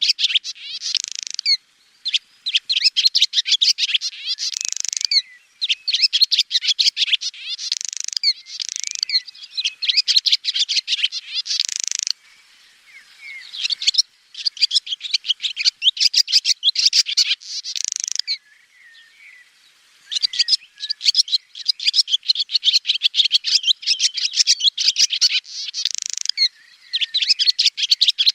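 Swallow twittering song: fast runs of high chirps in phrases of a second or two, separated by short pauses, with two quieter, sparser stretches around the middle.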